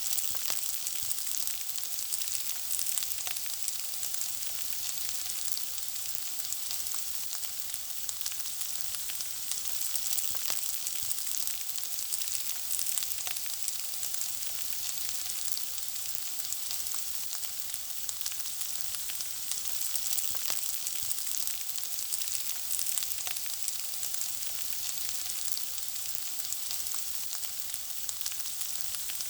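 Food frying in hot oil: a steady sizzle with many small pops and crackles scattered through it.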